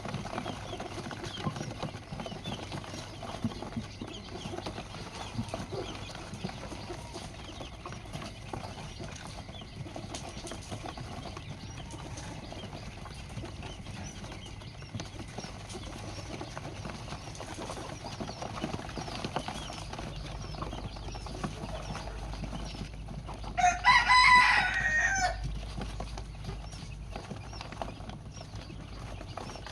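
A rooster crows once, a single loud call of about two seconds, a little before the end, over a faint, busy background.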